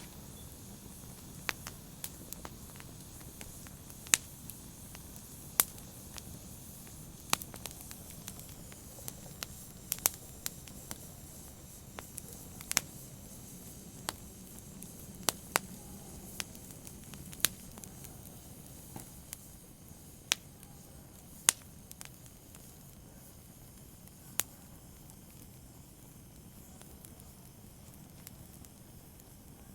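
Open fire crackling: sharp, irregular pops and snaps over a soft steady hiss. The pops grow sparse near the end.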